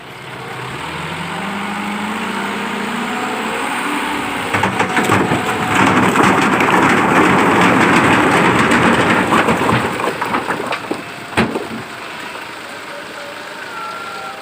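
Dump truck tipping a load of stones: the engine revs up with a rising hum to raise the bed, then the stones slide out with a loud, dense rattling rush that lasts several seconds and fades.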